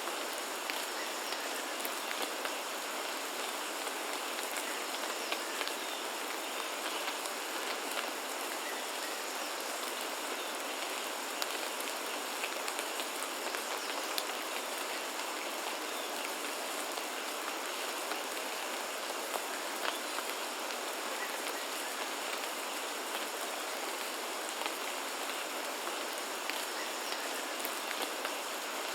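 Steady rain falling, with scattered individual drops ticking on surfaces. A faint, steady high-pitched tone runs underneath.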